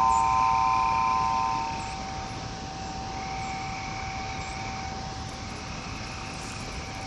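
Chimes ringing: three clear notes struck in quick succession right at the start, then dying away, the lowest note ringing on long after the others. A steady hiss of background noise runs beneath.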